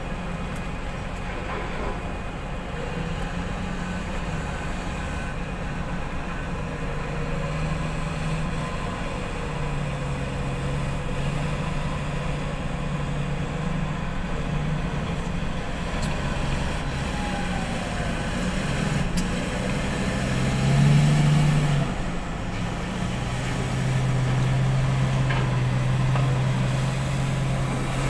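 Heavy diesel engine of a wheel loader working, its pitch rising and falling as it revs. There is a brief louder surge about three-quarters of the way through and a longer raised rev near the end.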